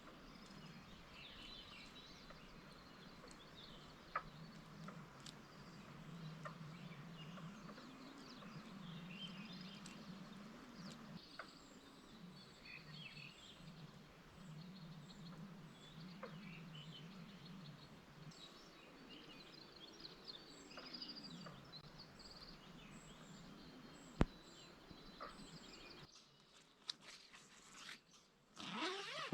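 Wild birds chirping and trilling in many short calls over a low, wavering drone, with one sharp click partway through. Near the end the background drops away and close rustling takes over.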